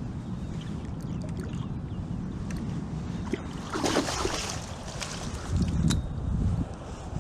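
Steady wind rumble on the microphone, with a short burst of splashing water about four seconds in, likely a hooked fish thrashing at the surface, and a few low thumps after it.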